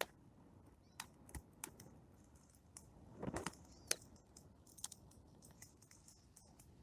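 Plum-wood bonfire crackling: faint, irregular sharp pops and snaps, with a quick run of them about three seconds in.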